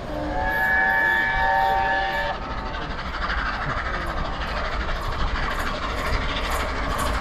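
Train horn sounding one held, chord-like blast of about two seconds, followed by the noise of the approaching train running along the track.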